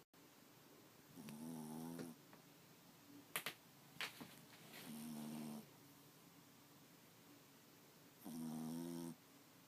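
A sleeping dog snoring: three snores, each under a second long, about three and a half seconds apart. A few sharp clicks come between the first and second snores.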